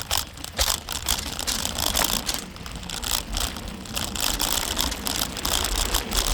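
Bicycle rolling over a loose, rough trail surface: tyres crunching over gravel and the bike rattling with a dense run of small knocks and clatter.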